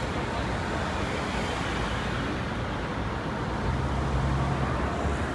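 Road traffic on a city avenue: a steady wash of vehicle and tyre noise, with a low engine drone that swells for a second or so past the midpoint.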